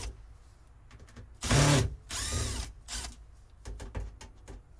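Handheld power drill/driver run in a few short trigger bursts, each spinning up and winding down. The loudest burst comes about a second and a half in, with small clicks between the bursts.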